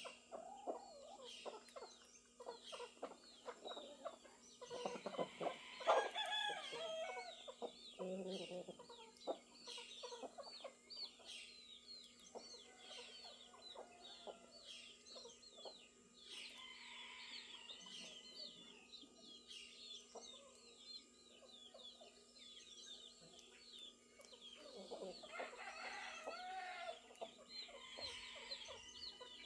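Farmyard chickens clucking, with a rooster crowing loudly twice, about five seconds in and again near the end, over a steady chatter of small birds chirping.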